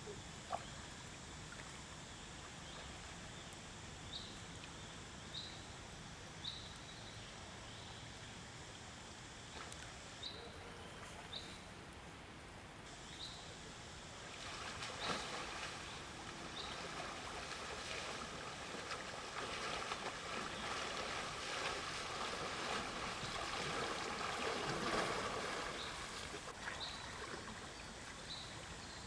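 Water splashing and sloshing for about ten seconds in the second half, loudest near the end of that stretch. Under it runs a faint outdoor background with a short high chirp repeating about once a second.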